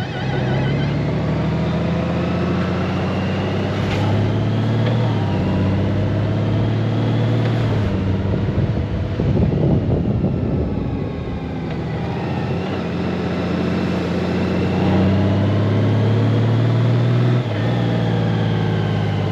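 Honda Gold Wing's flat-six engine running on the move. Its pitch steps down and up several times as the dual-clutch transmission shifts gears. About halfway, a brief, louder rush of noise is the loudest moment.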